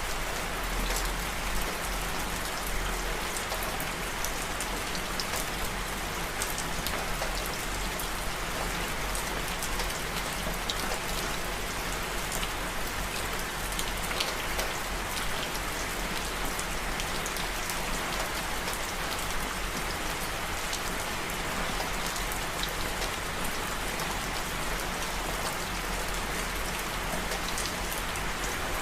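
Steady rain falling, a dense even hiss with many fine drop ticks pattering throughout.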